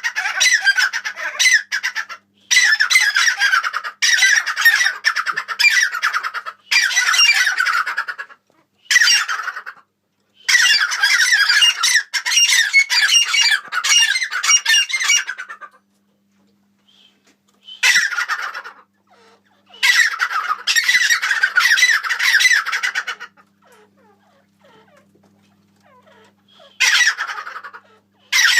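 Caged birds calling loudly in bursts of squawking, each lasting one to five seconds with short breaks, and a longer lull about two-thirds of the way through.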